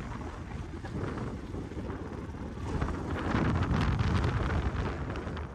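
Wind buffeting the microphone over a Crossfire dirt bike's engine running, getting louder from about three seconds in.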